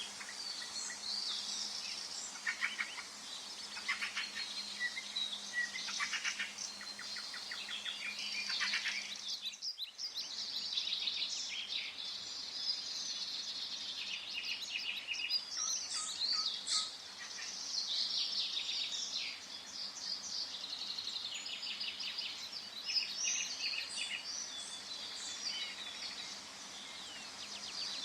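Several forest birds singing and chirping at once, in quick high trills and twitters over a soft steady background of the woods. The sound dips briefly just before ten seconds in.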